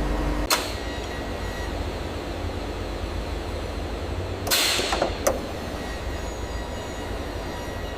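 Heavy lifting machinery's engine running steadily, with a sharp hiss about half a second in and a longer burst of hiss around four and a half seconds, followed by a click.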